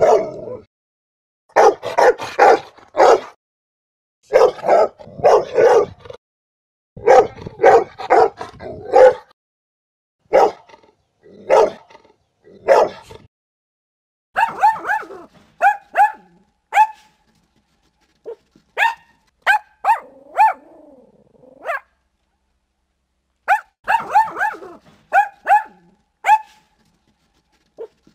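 A Rottweiler barking in quick clusters of deep barks, followed about halfway through by a dachshund's higher-pitched, sharper barks, singly and in short runs.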